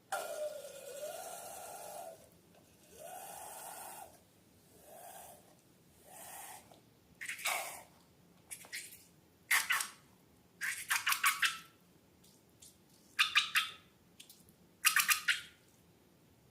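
Slime being squeezed with balloons: a few hissing spurts of air with a squeaky whistle in the first six seconds, then bursts of rapid, crackly wet squelching.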